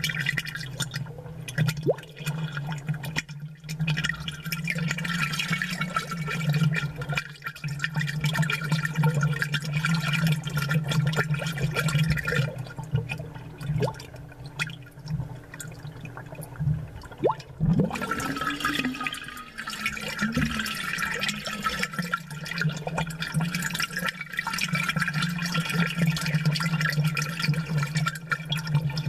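Aquarium bubbles gurgling and popping in a dense crackle over a steady low hum. The bubbling thins out for a few seconds in the middle, then comes back.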